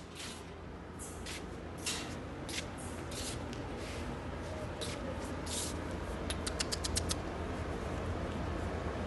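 Short rustling and hissing strokes over a low hum, with a quick run of about eight sharp clicks a little past the middle.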